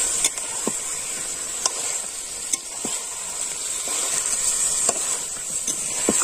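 Chicken pieces sizzling as they fry in mustard-oil masala in a metal karahi, with a steady hiss. A metal spatula stirs them, and now and then it clicks and scrapes sharply against the pan.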